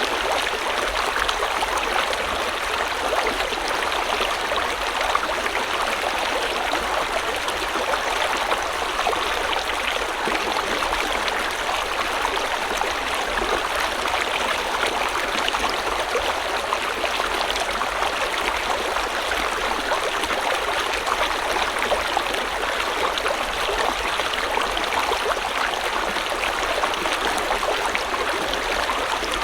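River water flowing, a steady even rush and babble of a stream.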